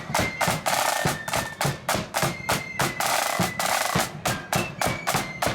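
Marching band drums, snare drums with rolls over bass drum, beating out a fast, even march rhythm, with faint high flute notes under the drumming.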